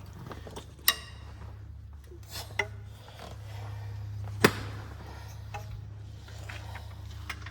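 Hand tools clinking and scraping on metal engine parts, with a few sharp metallic clicks, the loudest about four and a half seconds in, over a steady low hum.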